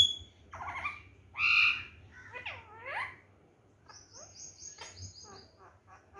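Pet parrot calling: a few loud, bending squawky calls in the first three seconds, the loudest about a second and a half in, then a quick run of short chirps and high piping notes.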